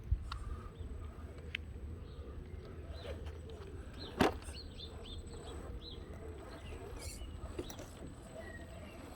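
Birds chirping in short calls over a steady low rumble, with one sharp click about four seconds in.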